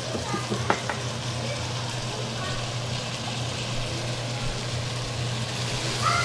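Chopped tomatoes sizzling as they sauté in a stainless steel pot on the stove: a steady hiss over a low, even hum, with a few light clicks about a second in.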